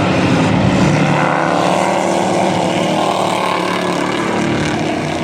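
Race trucks' engines running hard at racing speed on a dirt oval: a loud, continuous engine drone whose pitch shifts as the trucks accelerate and lift.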